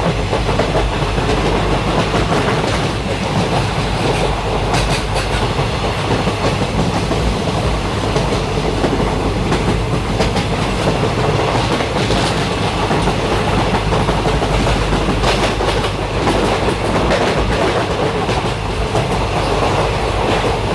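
Indian Railways train running along the track: a steady, loud rumble with sharp wheel clicks over the rail joints every few seconds.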